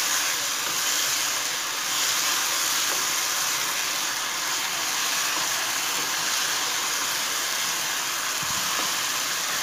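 Sliced bell peppers and onions sizzling steadily with their sauces in a hot non-stick wok on high flame as they are stir-fried with a spatula.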